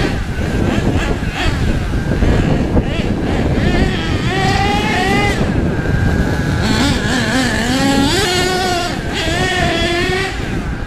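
HPI Savage SS nitro RC truck's small glow engine running, its pitch rising and falling as the throttle is worked, with wind buffeting the microphone.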